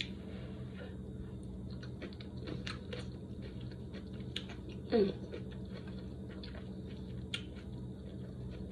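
A person chewing a forkful of food, with small wet mouth clicks, over a steady low hum. About five seconds in there is one short, louder falling "mm".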